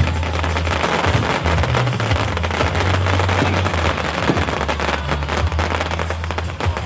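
Firecracker strings going off in a dense, rapid crackle of bangs, over a low steady hum.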